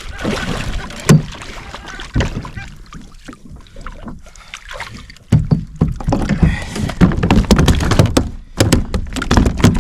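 Knocks and thumps on a kayak with water and handling noise; much louder and busier from about five seconds in, with a quick run of sharp knocks near the end.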